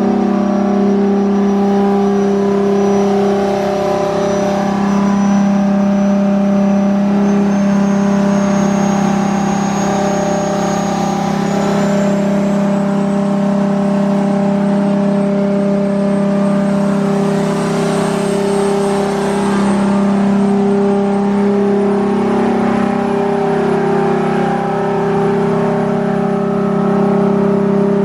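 Big-turbo Toyota 2JZ inline-six in a Nissan Skyline R34 running on a chassis dyno, held steady at about 4,000 rpm during tuning calibration. A faint high whine climbs slowly in pitch over the steady engine note.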